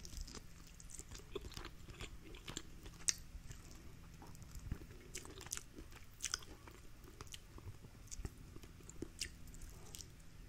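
A person biting and chewing rotisserie chicken off the bone, held in the hands: irregular small clicks and smacks of the mouth, with a sharper click about three seconds in.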